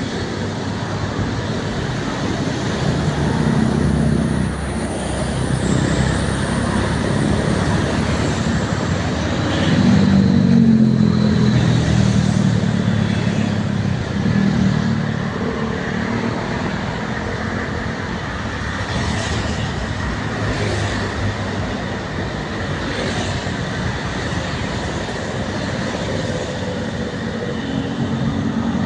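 Road traffic: motor vehicle engines running and passing by, with a continuous tyre and engine roar and a low engine hum that swells loudest about ten seconds in.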